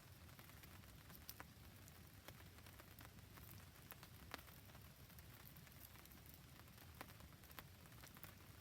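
Faint rain falling over a crackling wood campfire: a soft steady hiss with scattered sharp ticks and pops, the sharpest about four seconds in.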